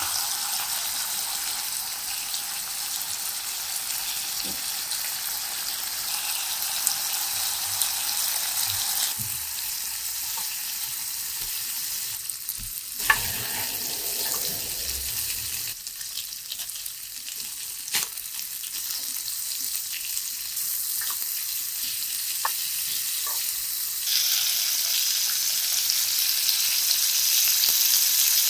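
Chicken gizzards sizzling in a frying pan, stirred now and then with a spatula, with a few sharp clicks of the spatula against the pan. The sizzle gets louder near the end.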